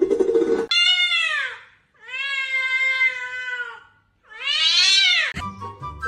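A cat meowing: three long, drawn-out meows, the first falling in pitch, the second held level and the third rising and then falling.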